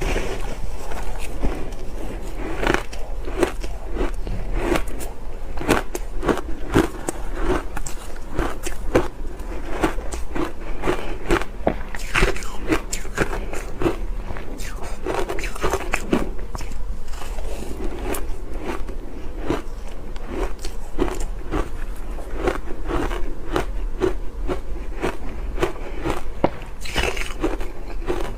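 Ice being bitten and chewed close to the microphone: a continuous run of crisp, irregular crunches and crackles, several a second.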